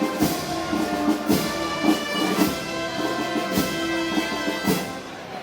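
Brass band playing Moros y Cristianos festival music: held brass chords over slow, regular percussion strokes about once a second.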